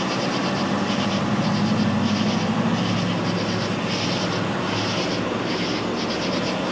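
A police car's engine idling with a steady low hum, under insects chirping in rhythmic pulses.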